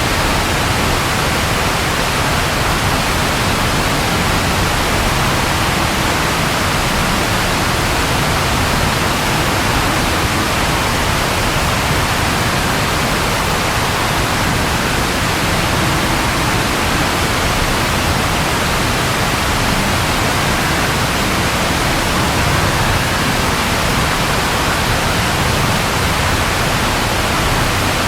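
Steady rain falling, a dense, even hiss with no changes.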